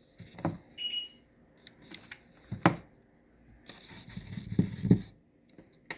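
Handling noises from craft work: scattered light taps and knocks, a louder knock about two and a half seconds in, then a rustle of about a second and a half ending in two more knocks.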